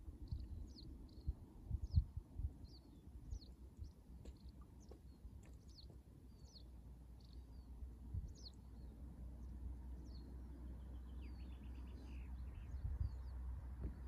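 A small bird calling over and over, short high chirps that slide downward, about two a second, over low thumps and rumble. A short run of rapid ticks comes about eleven seconds in.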